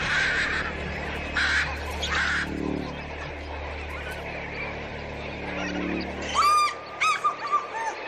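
Birds calling: short bursts of goose-like honking from a flock over a low steady hum. Near the end comes a loud run of ringing calls, one long call followed by three or four shorter ones.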